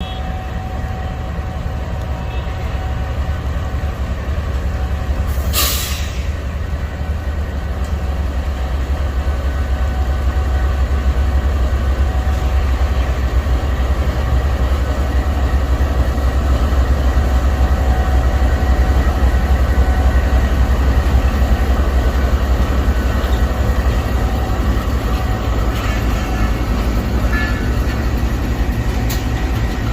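Subak Raftar Express passenger train running on the rails: a steady low rumble that grows louder over about twenty seconds and eases slightly near the end, with a brief sharp hiss about six seconds in.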